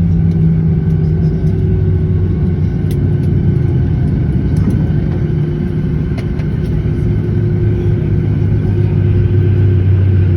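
Boeing 737-800's CFM56 jet engines, a steady loud low rumble with a faint droning hum that holds level throughout.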